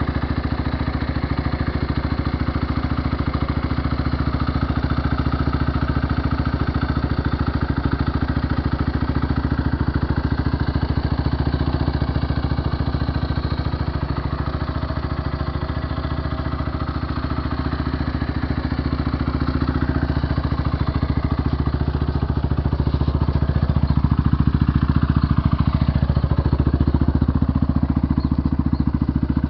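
Honda XR 200's air-cooled single-cylinder four-stroke engine idling steadily.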